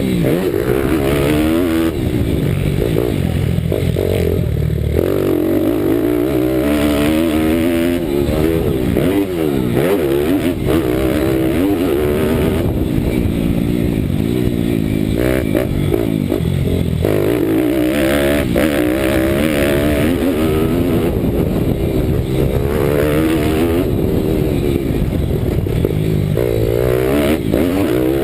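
Single-cylinder four-stroke engine of a Bucci Moto pit bike with a 190 cc Daytona Anima engine, heard on board at race pace. It revs up and drops back over and over as the rider accelerates, shifts and brakes through the corners.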